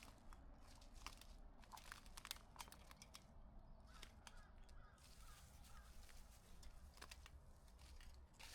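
Faint crackling of footsteps on dry leaves and twigs, with a short run of about five bird calls about four seconds in.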